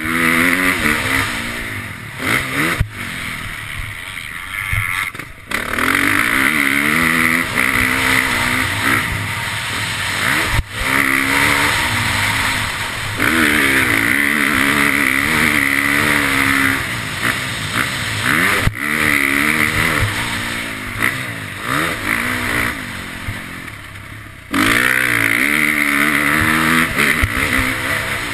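KTM motocross bike's engine revving hard through the gears. Its pitch repeatedly climbs and drops, and the throttle eases off twice: once after about three seconds, and again for a couple of seconds near the end before it opens up again.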